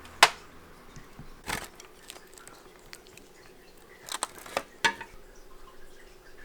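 A few sharp knocks or clicks over a quiet background: a loud one right at the start, another about a second later, then a quick cluster of three near the end.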